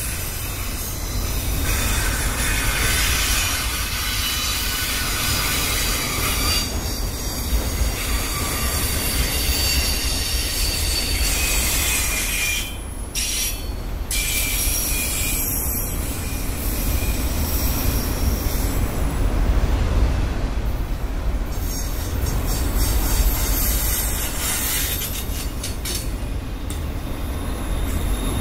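Freight train's autorack cars rolling past with a steady low rumble and a high-pitched wheel squeal that comes and goes.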